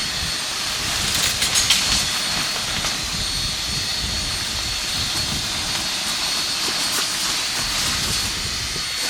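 Steady hiss of heavy rain, with a few light clicks about a second and a half in.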